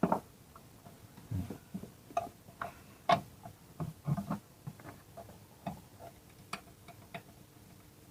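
Irregular light clicks and knocks of metal tools and small parts being handled while a part is fitted back in place, the sharpest knock about three seconds in.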